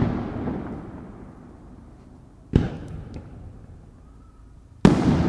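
Aerial firework shells bursting: the echoing boom of one burst fades away over the first second or so, a sharper bang comes about two and a half seconds in with a few crackles after it, and another loud boom lands near the end.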